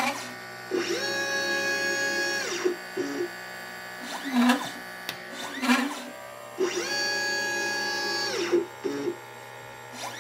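A LitePlacer pick-and-place machine's stepper motors are whining through a component-placing cycle. There are a few short, quick moves with brief pitch glides. Then comes a long travel move of about two seconds with a steady multi-tone whine that ramps up in pitch as it starts and down as it stops. The same cycle repeats about six seconds later as the next capacitor or resistor is placed.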